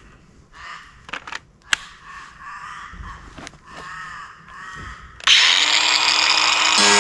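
Crows cawing several times, with a few sharp clicks among the calls. About five seconds in, a loud rushing noise starts suddenly, and near the end a power drill's motor starts running with a steady whine.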